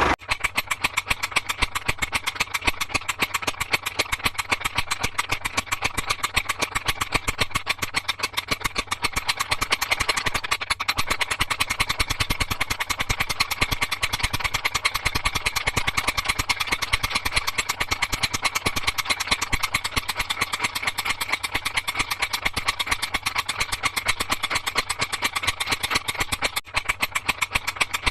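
Small engine idling steadily, with a rapid, even beat of sharp knocks.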